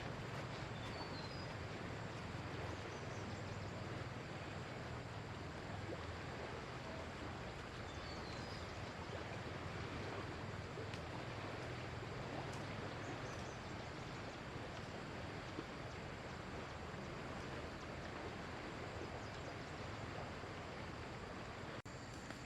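Steady rushing of flowing floodwater, with a few faint high chirps about a second in and again around eight seconds in.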